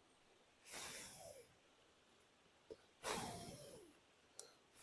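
A person blowing hard onto the coals of a small wood-burning camp stove to revive a dying fire: two long breathy blows about two seconds apart, the second louder, with a couple of faint clicks between.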